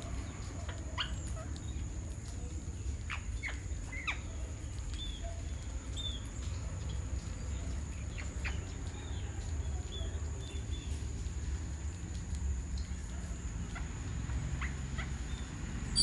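Scattered bird calls: a few quick, sharp down-sliding notes and small high chirps, over a steady low rumble and a thin, steady high whine.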